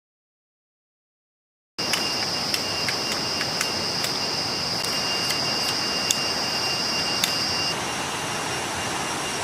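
Forest ambience after a brief dead-silent gap: a steady rush of noise with a continuous high-pitched drone that shifts slightly higher about eight seconds in, and scattered sharp clicks.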